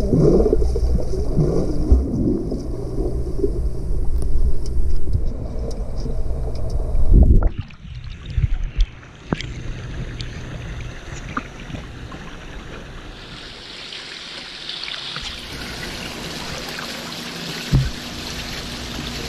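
Muffled underwater sound of pool water churned by a dog paddling past a submerged camera. About seven and a half seconds in, the camera comes out of the water and the sound turns thin and open: lapping water and light splashes, with a single knock near the end.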